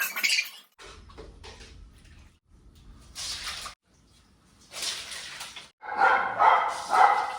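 Dogs barking and whining, loudest near the end, after a brief clatter of metal dishes at the start.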